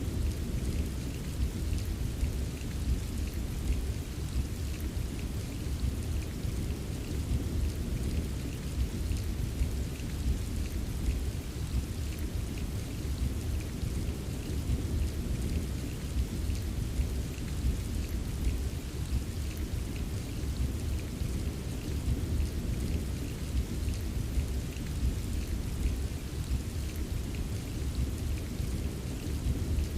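Steady rain ambience: continuous rainfall with a constant low rumble beneath it and fine patter of drops, unchanging throughout.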